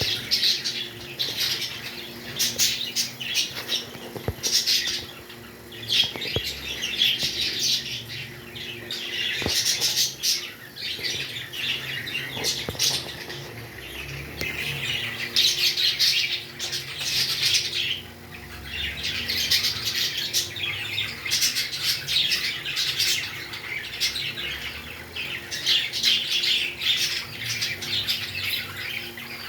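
Pet parrots chirping and squawking in a dense, high-pitched chatter that comes in bouts of a few seconds, with short lulls between them.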